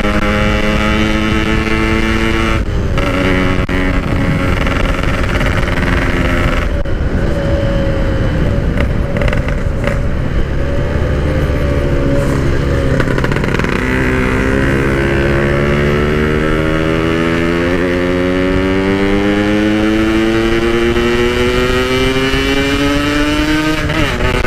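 Yamaha RX-King two-stroke single-cylinder motorcycle engine pulling hard through a stock-style packed exhaust. The pitch drops sharply at upshifts about three and seven seconds in, then climbs steadily in one long pull before dropping at another shift near the end.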